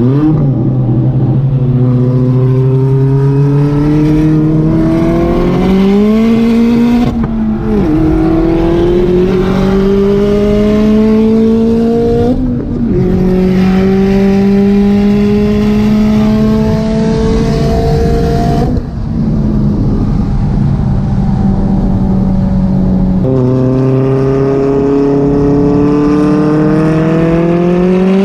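Big-turbo VW Jetta engine heard from inside the cabin, accelerating hard through the gears on a 5-speed: the pitch climbs steadily, drops at upshifts about seven and twelve seconds in, holds steady for a few seconds, then climbs again near the end.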